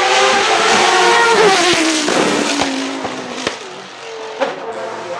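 Judd GV4 4.0-litre V10 of a Dallara SP1 racing prototype running at high revs, its note falling in pitch as it lifts off and fades, with several sharp cracks on the overrun.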